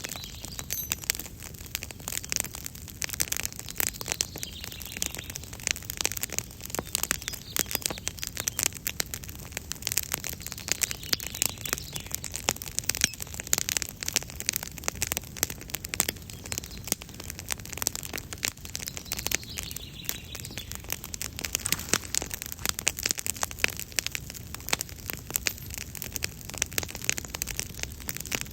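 Campfire crackling, a dense, irregular run of small pops and snaps over a soft hiss, with birds calling faintly now and then.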